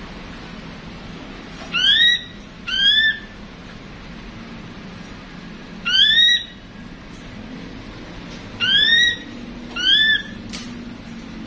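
Ashy drongo calling: five loud upslurred whistled notes, each under half a second, coming singly and in pairs.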